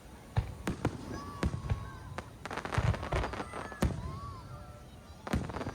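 Aerial fireworks bursting overhead: a string of sharp bangs and deep booms at irregular intervals, densest around the middle with a quick run of crackling reports.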